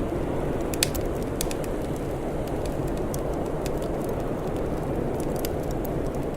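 Wood fire crackling, with irregular sharp pops (the loudest about a second in) over a steady low rushing noise.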